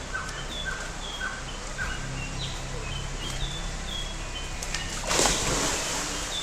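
Birds calling: a run of short repeated chirps, then higher short calls, over a steady background hiss, with a brief louder rush of noise about five seconds in.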